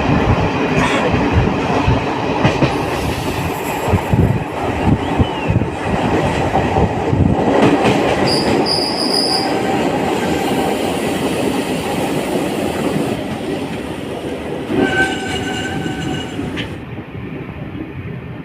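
Passenger train running on the track, its wheels knocking over rail joints. A brief high wheel squeal comes about halfway through, and a shorter pitched squeal comes near the end. The running noise eases off toward the end.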